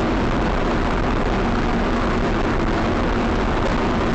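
Steady engine and road noise of a car driving, picked up by its dashcam, with a faint steady hum.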